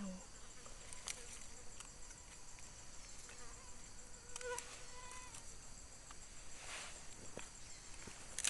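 Forest insects keeping up a steady high-pitched buzz, with scattered light clicks and rustles.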